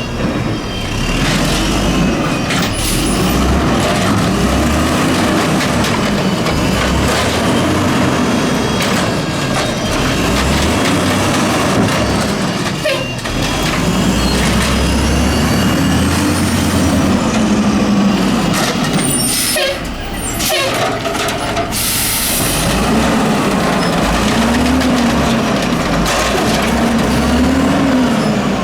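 A Mack LE garbage truck with an automated side-loader body, its diesel engine revving up and settling back again and again while it works. An air-brake hiss comes a little after the middle, and a few sharp knocks sound around the middle.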